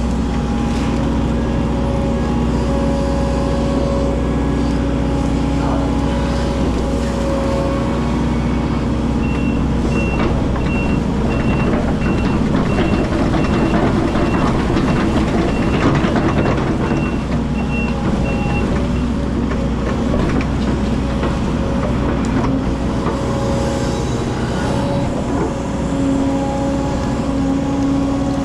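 Hydraulic excavator's diesel engine running steadily under work. For about ten seconds in the middle, its alarm beeps in an even, rapid high-pitched series.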